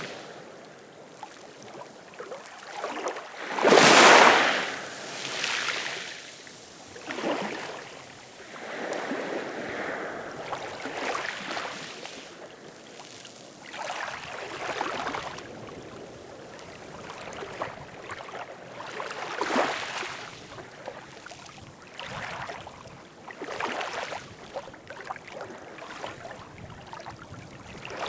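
Ocean waves washing in, swelling and ebbing in irregular surges every few seconds, the loudest about four seconds in.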